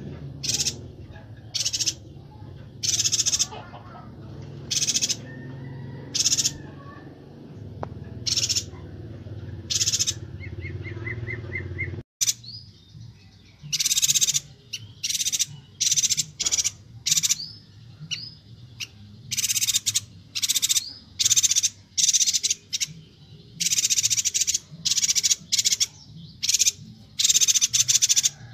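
Chestnut-crested yuhinas (Bornean yuhina) calling: short, high-pitched notes repeated about once a second. After a sudden break about twelve seconds in, the notes come faster and crowd together. A low steady hum sits under the first half.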